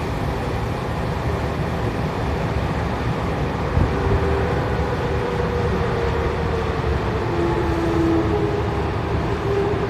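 Tokyo Metro 7000 series subway train running at speed, heard from inside the car in the tunnel: a steady rumble of wheels on rail with a faint humming tone from the traction motors through the middle.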